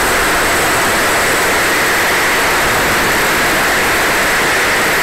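Twin KingTech K-235 model turbine jet engines of a large RC Su-30 running steadily: a loud, even roar with a thin, high, steady whine above it.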